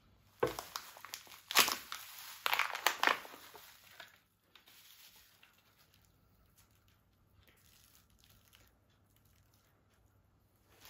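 Crinkling and rustling, like something being crumpled or handled. It comes in several loud bursts over the first four seconds, then fades to faint scattered rustles.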